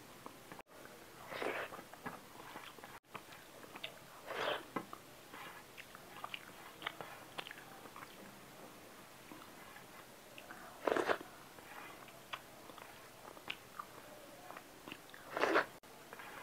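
Close-miked eating sounds: chewing and mouth noises with many small clicks, and four louder short bursts spread through, as someone eats rice and fish curry by hand.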